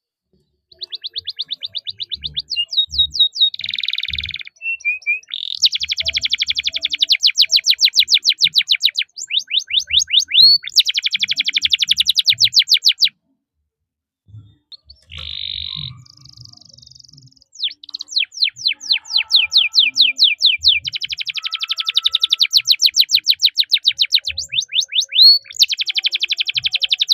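Domestic canary singing long, fast rolls of rapidly repeated chirping notes, with a couple of short buzzy notes between rolls. The song breaks off briefly about halfway through, then resumes.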